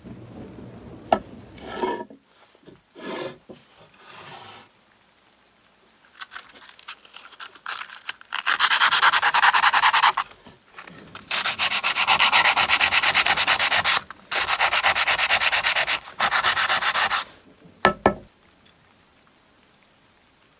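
Abrasive being rubbed hard against the workpiece in fast back-and-forth strokes: a few short scrapes, then four long spells of rapid, continuous sanding in the second half.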